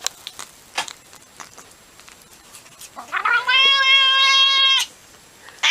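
A domestic cat giving one long, drawn-out meow about three seconds in, rising at first and then held steady for nearly two seconds, after a few faint clicks.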